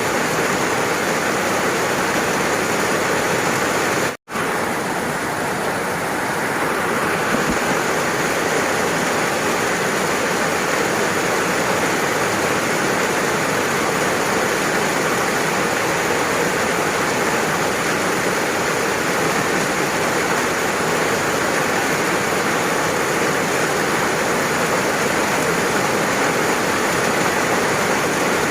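Steady heavy rain falling, a dense even hiss, cut by a split-second dropout to silence about four seconds in where the recording is spliced.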